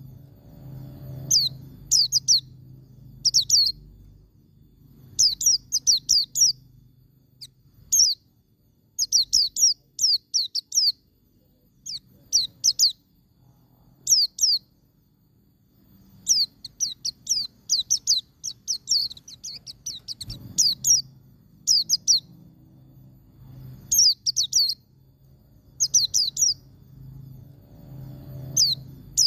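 White-eye (pleci) singing its rapid 'ngalas' song: clusters of quick, high, down-slurred notes, a few at a time, repeated every second or two.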